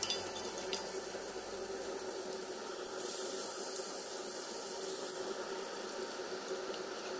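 Shrimp and crab sticks sizzling in a hot wok, a steady hiss with a few light ticks. The hiss grows brighter about three seconds in, as carbonara cream goes into the pan and steams.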